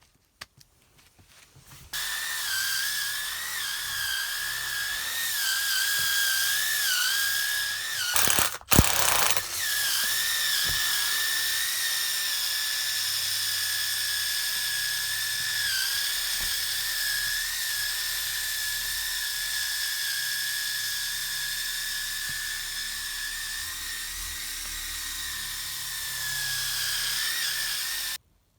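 Electric sander sanding wooden sheathing boards: a steady motor whine that wavers slightly in pitch under load. It switches on about two seconds in, breaks off briefly with a clatter about a third of the way through, and cuts off suddenly near the end.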